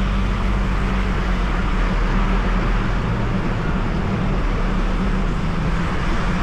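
Steady road noise heard from inside a moving car on a wet road: a low engine and tyre drone with an even hiss of water spray from the tyres.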